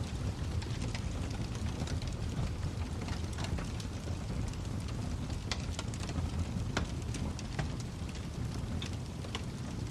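Wood fire burning in a fireplace: a steady low rumble of flames with scattered sharp crackles and pops, a few each second, some louder than others.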